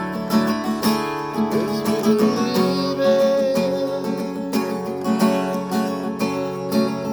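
Acoustic guitar strummed in a steady rhythm, about two to three strokes a second: an instrumental passage of a song.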